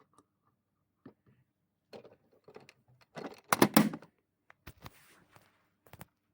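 Wheels and tires tumbling in an LG washing machine drum, giving irregular knocks and clunks, with a dense burst of clattering about three and a half seconds in and a couple of sharp knocks near the end.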